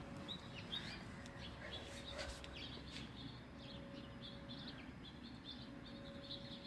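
Many birds chirping faintly in short, high calls scattered throughout, over a faint steady hum.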